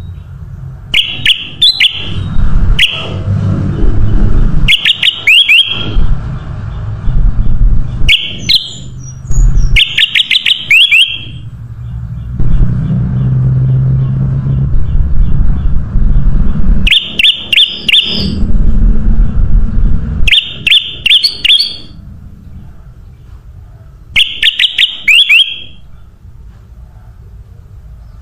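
Kutilang emas, a bulbul, singing short bursts of quick chirping notes every couple of seconds over a steady low rumble.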